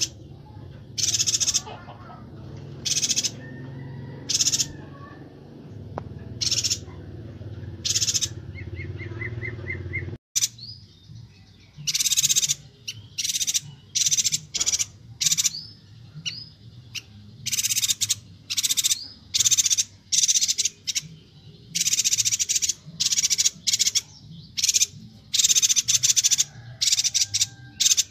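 Yuhina (perenjak batu) calling: bursts of high-pitched chirps repeated every second or two. After a brief dropout about ten seconds in, the chirp bursts come faster and closer together, and a low background rumble is gone.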